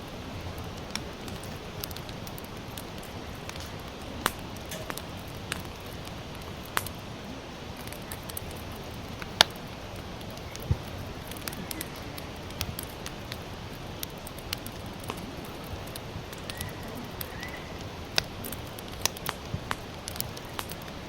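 Sawtooth oak (kunugi) firewood burning in a campfire: a steady low hiss with irregular sharp crackles and pops, the loudest about nine seconds in.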